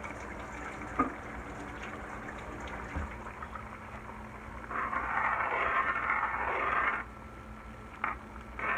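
Marsala gravy simmering in a frying pan, with a couple of light utensil taps and then a louder stretch of scraping or stirring a few seconds later, lasting about two seconds.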